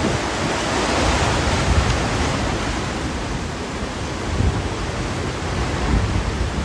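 Hurricane wind gusting: a loud, steady rushing noise that swells about a second in, with low buffeting of wind on the microphone.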